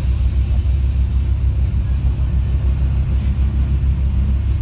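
Steady low running rumble of a moving passenger train, heard from inside the carriage.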